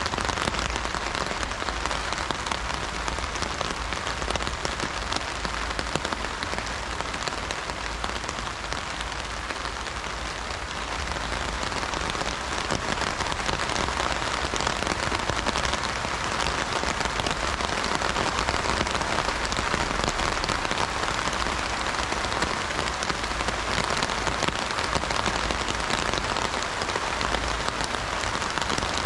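Heavy rain drumming on an umbrella canopy overhead: a dense, steady patter of countless drops on the fabric.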